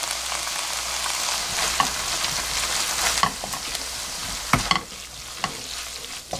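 Tuna, diced onion and gochujang sizzling in a nonstick wok while a wooden spatula stirs and turns them, with a few light knocks of the spatula against the pan.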